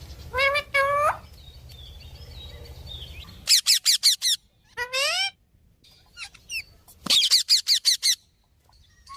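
Small birds chirping: short runs of quick, rapidly repeated high chirps, with a few longer sweeping calls between them.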